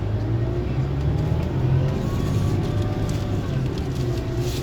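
Scania coach's diesel engine running steadily with a low drone.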